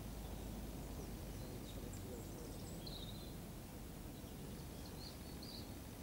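Quiet countryside ambience: a steady low rumble of background noise, with a few short high bird chirps about halfway through and again near the end.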